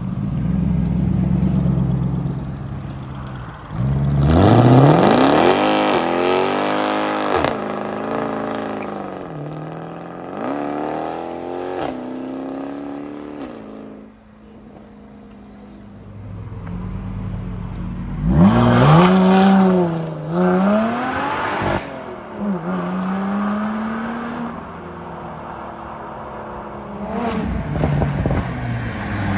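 Sports cars accelerating away one after another, their engines revving up hard and dropping back at each gear change. There are two loud pulls, about four seconds in and again around eighteen seconds in, and a shorter one near the end, with lower engine rumble between them.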